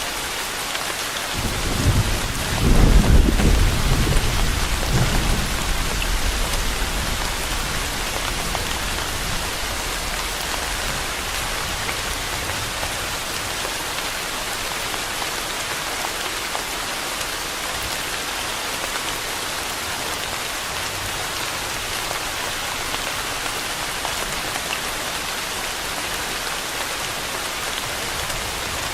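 Steady heavy rain falling, with a roll of thunder that rumbles up about two seconds in, peaks around three seconds and fades by about six seconds; a faint low rumble returns near the end.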